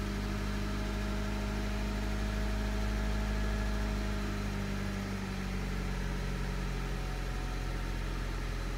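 2000 Honda Civic four-cylinder engine idling just after a start, its idle dipping slightly about halfway through. It idles low and erratically because of a faulty idle air control valve, behind its P0505 code and its cylinder 1 and 2 misfire codes.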